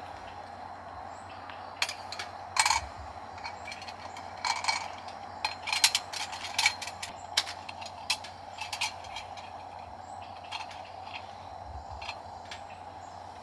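Irregular light clicks and clinks, as of hard objects being handled and set down, about a dozen over several seconds, over a steady faint background hum.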